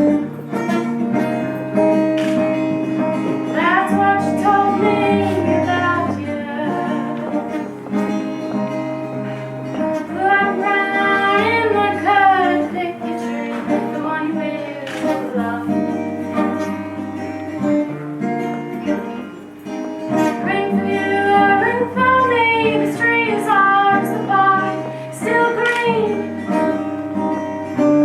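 A woman singing a slow song to acoustic guitar accompaniment, with long held notes over a plucked guitar.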